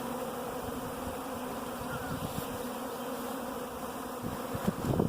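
A swarm of honey bees buzzing in a steady hum, the bees gathering at the hive box they are being moved into.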